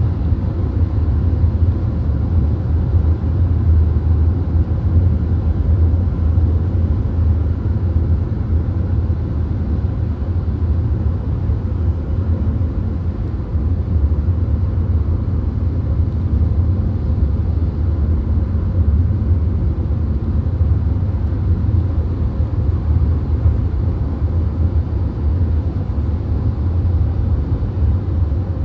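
VW Golf at highway speed, heard from inside the cabin: a steady deep rumble of road and engine noise with an even hiss of tyres and wind above it.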